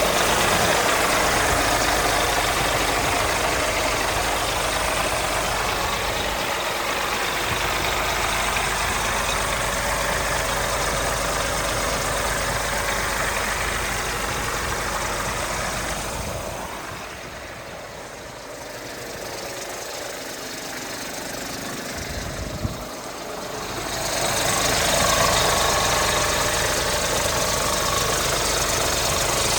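Scania R 500 truck's 13-litre straight-six diesel idling steadily. For several seconds in the middle it is quieter and duller, and a single sharp click comes shortly before it returns to full level.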